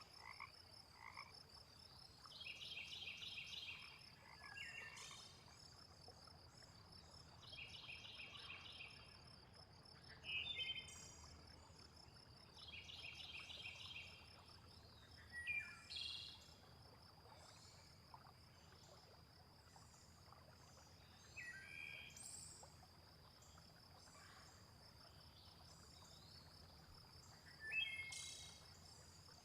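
Frogs calling: a rapid, pulsed croak of about a second that repeats roughly every five seconds, over a steady high insect trill. Short bird chirps break in now and then.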